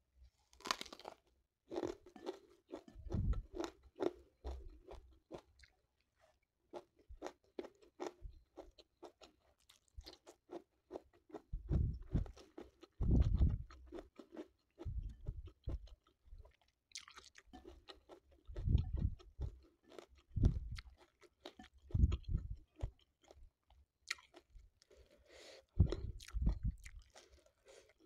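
Close-up chewing and crunching of a mouthful of food, beginning with a crisp bite into a raw round Thai eggplant. Irregular wet clicks and soft low thuds of chewing carry on throughout.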